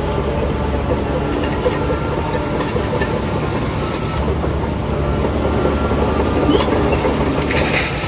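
Bulldozer's heavy diesel engine running steadily, with the metallic clatter of its crawler tracks. A short hiss comes near the end.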